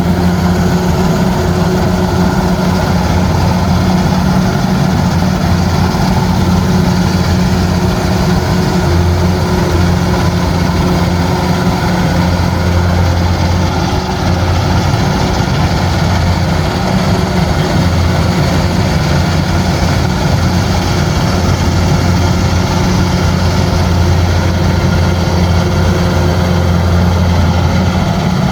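Combine harvester's engine running steadily, a loud unchanging low hum.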